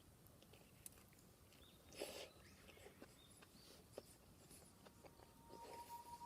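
Near silence: faint outdoor ambience with scattered small clicks, a brief soft rustle about two seconds in, and a few faint high chirps.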